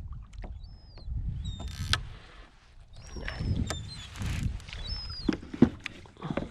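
Water sloshing and knocking against a fishing kayak's hull, in uneven low swells with a few short knocks, and a few short high squeaks.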